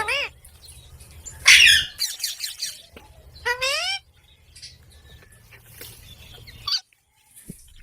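Green parrot squawking in short, loud calls. The loudest come at the start and about a second and a half in, and a rising call comes about three and a half seconds in, with fainter chirps after. A low steady hum runs underneath and stops near the end.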